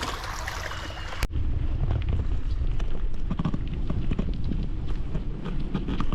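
Wind buffeting the microphone outdoors, a strong uneven low rumble. About a second in the sound cuts abruptly from a hissy stretch to the rumble.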